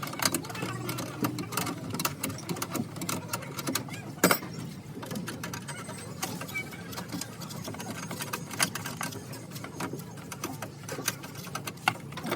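Hand tools working a bolt on metal: a run of irregular clicks and light taps, with one sharper knock about four seconds in.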